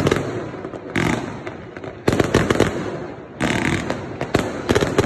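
Fireworks going off: several loud bangs of bursting shells and firecrackers, roughly one a second with a quick cluster near the end. Each bang trails off, and rapid crackling fills the gaps between them.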